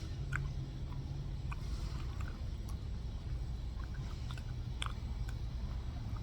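A person chewing food, with scattered small mouth clicks, over a steady low rumble.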